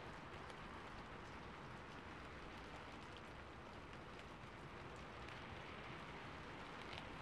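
Faint recorded rain falling on a rooftop, used as an ambience track: a steady hiss with scattered light drop taps.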